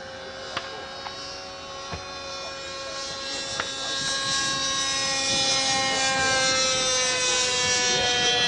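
A small model airplane engine runs with a steady high-pitched buzz and grows much louder about halfway through. A few light clicks come in the first few seconds.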